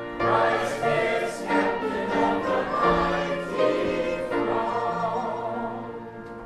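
Voices singing a hymn together in parts, with held notes, the last chord held and fading away near the end.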